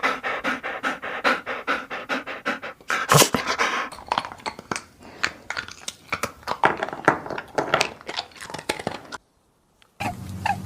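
A dog panting rapidly, about four or five quick breaths a second, which breaks off abruptly about nine seconds in.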